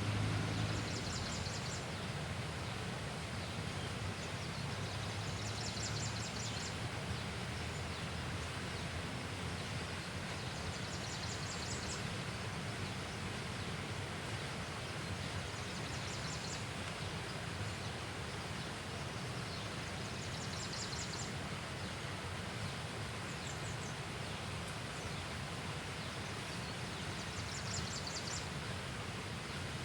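Outdoor ambience: a steady background hiss and rumble, with a short high, pulsing trill from some animal repeating about every four to five seconds.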